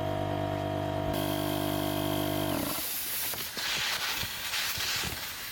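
Electric air pump running with a steady hum while inflating an inflatable tent. It cuts off suddenly about two and a half seconds in, followed by irregular rustling and crunching.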